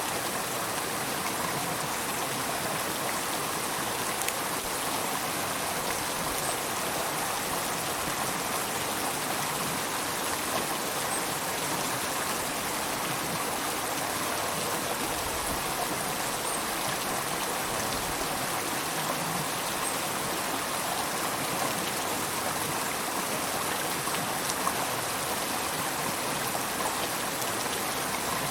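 River water flowing steadily, a continuous rushing and babbling with small splashes in it.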